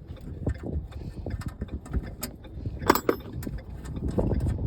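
Irregular clicks, taps and knocks of hand work on metal truck parts, with one sharper clack about three seconds in, over a low rumbling background.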